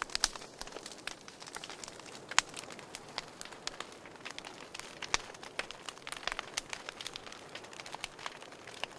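Wood fire crackling in a fireplace: irregular sharp pops and snaps over a soft hiss, a few louder pops standing out.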